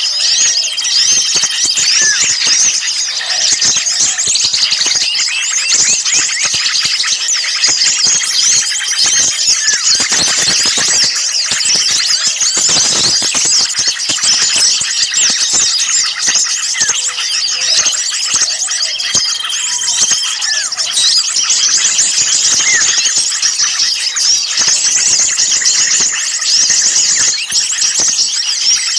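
Bird-lure recording of many small songbirds calling at once in a noisy, agitated chorus: dense overlapping high-pitched chirps and twitters. A short, level whistled note recurs about every ten seconds.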